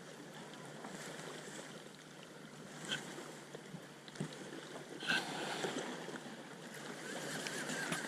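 Steady water and wind noise around a small fishing boat, with a few faint brief clicks and knocks.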